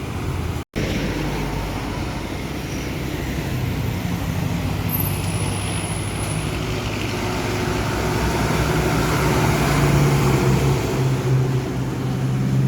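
A loaded truck's engine drones steadily over road noise and grows louder toward the end. The sound cuts out for an instant about a second in.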